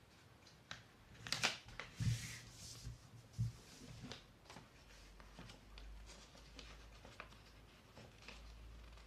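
A thin A4 sheet of paper being folded in half lengthwise and creased by hand: rustling and rubbing of paper with scattered light clicks, and a couple of soft knocks on the table about two and three and a half seconds in.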